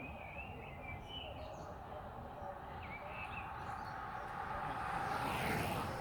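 Bird chirping in short warbling phrases over a steady low wind and road rumble, with a brief rushing swell just before the end.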